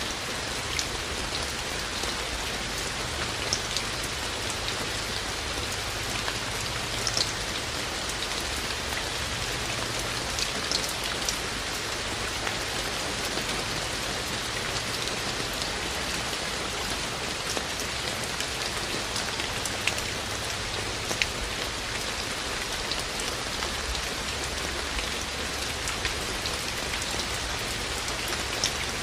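Steady rain falling, a constant hiss with individual raindrops ticking out sharply here and there.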